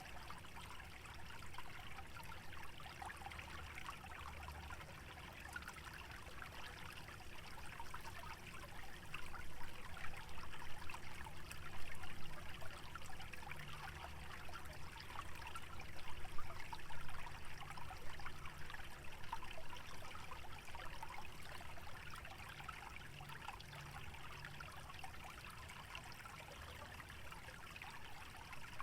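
Small stream trickling and babbling through a wetland, a steady fine splashing that swells a little louder for a few seconds midway. A faint low rumble runs underneath.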